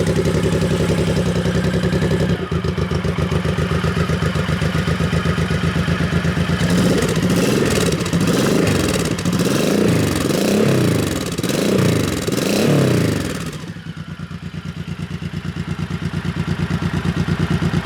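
1999 Honda Shadow 1100's V-twin running loud through its gutted stock mufflers. It idles with a steady pulsing beat, is revved in several quick throttle blips about midway, then drops back and settles to idle.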